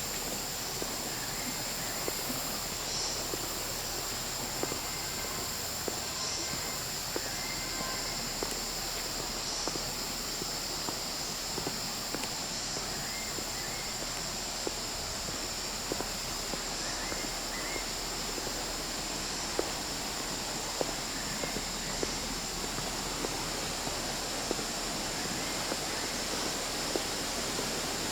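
Steady rush of shallow water flowing over rocks, with a continuous high insect drone above it and scattered faint ticks.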